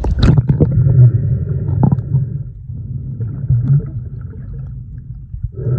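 Loud low rumble of sea water heard with the microphone underwater, with a few clicks near the start and a quieter stretch in the middle.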